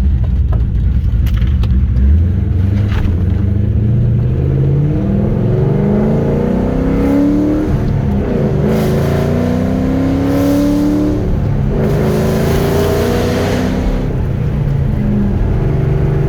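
Cammed, straight-piped 4.6-litre three-valve V8 of a 2005 Ford Mustang GT pulling at about half throttle through the gears of its manual gearbox. The exhaust note climbs in pitch, drops at a shift about eight seconds in, climbs again and drops at a second shift a few seconds later.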